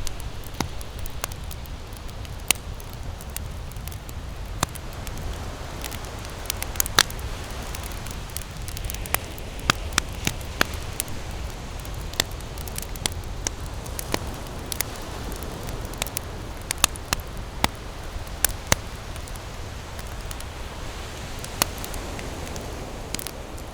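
Wood campfire burning, crackling with irregular sharp pops and snaps, a few a second, over a steady low rush.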